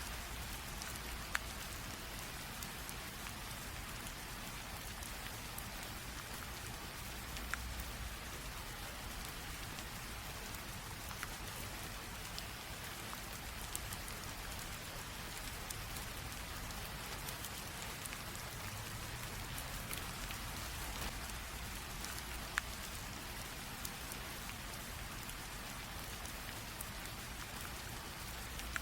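Steady light rain drizzling on a surface, an even hiss with scattered sharp ticks of single drops.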